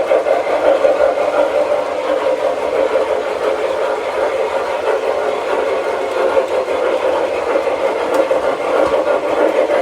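O scale model steam locomotive running on the layout: a steady rolling rumble of wheels and motor on the track.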